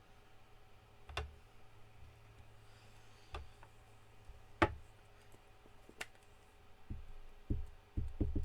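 Sharp, isolated clicks and light taps of rubber and clear stamps and their cases being handled on a craft desk: four clicks a second or more apart, then several softer knocks near the end, over a faint steady hum.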